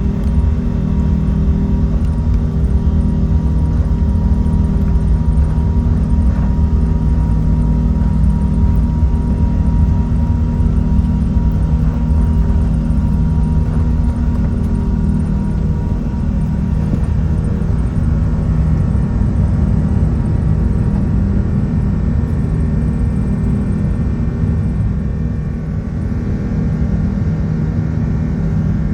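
Airbus A380's Rolls-Royce Trent 970 engines heard from inside the cabin: a loud, steady rumble with a few steady hums over it.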